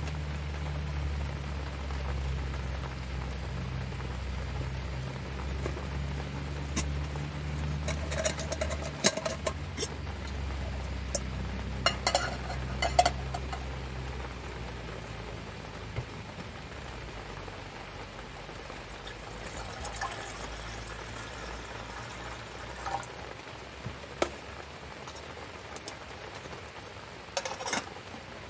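Camp cooking with rain falling: a low steady hum fades out about halfway through, and pots and utensils clink and clatter now and then.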